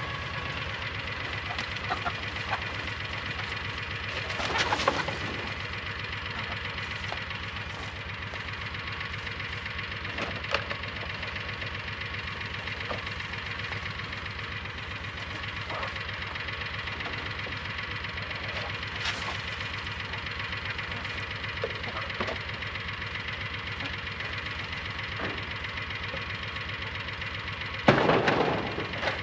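An engine running steadily with an even low pulse, a few short knocks and rattles over it, and a louder clatter near the end.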